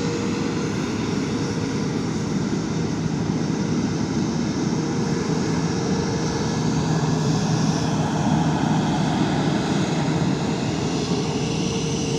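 Jet aircraft engines running steadily: a continuous rushing noise with a low steady hum, swelling slightly about eight seconds in.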